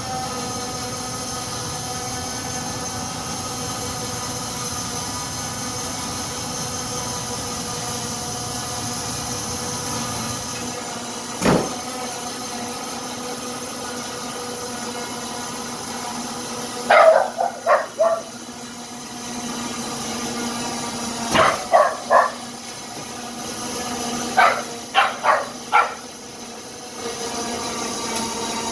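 A dog barking in three short runs of three or four quick barks, over a steady mechanical hum. There is a single knock a little before the first run.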